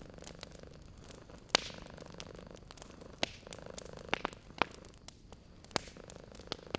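A cat purring steadily, with a wood fire crackling over it in sharp pops. The loudest pop comes about a second and a half in, and a quick cluster follows around four seconds in.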